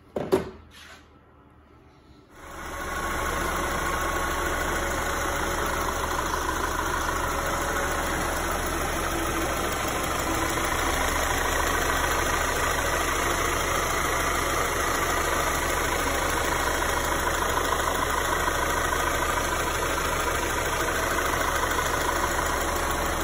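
A single knock, then the 2011 Audi A4's 2.0 TFSI turbocharged four-cylinder comes on about two seconds in and idles steadily, warming its fresh oil after the oil change so the level can be read.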